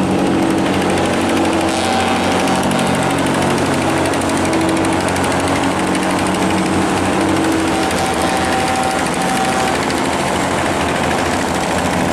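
Small fishing boat's engine running hard, a loud steady rattling drone, as it pushes up through the dam against the current. A higher steady tone joins it twice.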